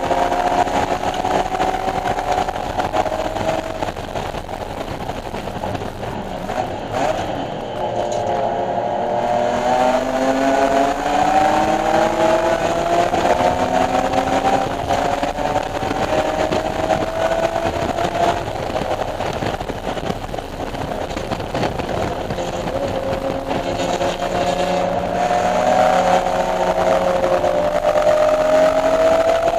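BMW E46 M3's 3.2-litre straight-six engine under hard driving, its pitch climbing as it accelerates and falling away when it slows, several times over.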